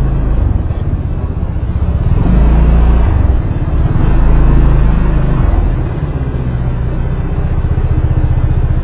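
Motor vehicle running on the road, a steady low rumble of engine and road noise heard from onboard, swelling louder for a few seconds from about two seconds in.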